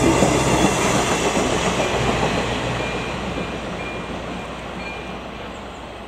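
A ČD Class 814 Regionova diesel railcar passes over a level crossing. The rumble and wheel noise are loudest at the start and die away as it moves off. The crossing's AŽD ZV-02 electronic warning bell rings faintly through it.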